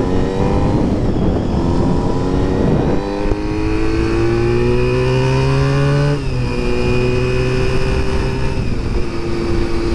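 Honda 400 motorcycle engine under way, its pitch climbing as it accelerates, dropping at a gear change about three seconds in and again about six seconds in, then holding fairly steady. Wind rushes underneath.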